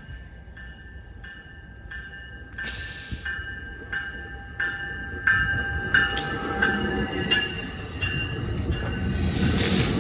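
A commuter train approaches with a bell ringing steadily about twice a second. Its rumble grows louder through the second half, with some wheel squeal and short hisses.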